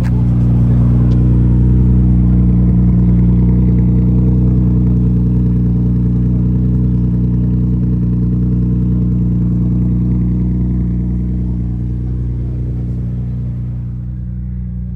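Car engine idling at a steady, even speed, loud at first and slowly fading toward the end.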